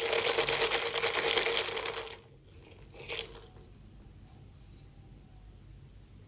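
Bread crackling close to the microphone: a dense run of fine crisp crackles lasting about two seconds, then one short crackle about three seconds in.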